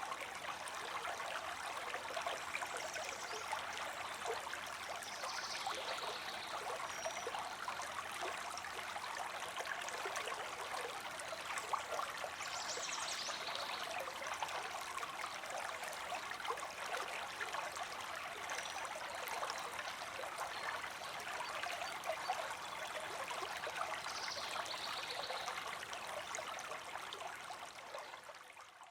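River water flowing steadily, a continuous rush and trickle of running water, with a few faint high chirps now and then. It fades out near the end.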